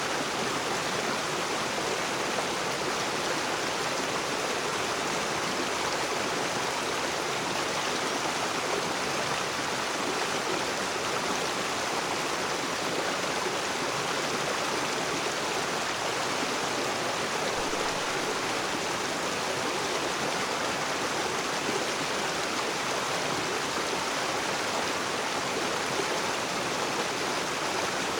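River water rushing and splashing over rocks, a steady, even sound that does not change.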